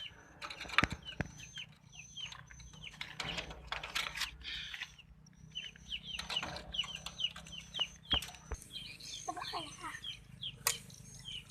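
Small pet birds chirping busily: many short, quickly repeated falling chirps, with a high thin piping note on and off. A few sharp knocks break in now and then.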